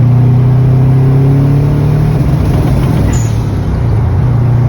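Subaru Legacy's EJ22 flat-four engine running under load while the car drives, its pitch rising slightly for about two seconds and then easing off. A brief high whistle sounds about three seconds in.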